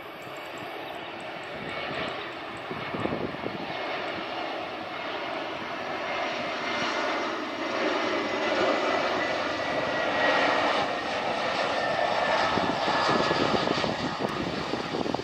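Airliner engines passing, a broad rush growing steadily louder, with a faint high whine that slowly shifts in pitch.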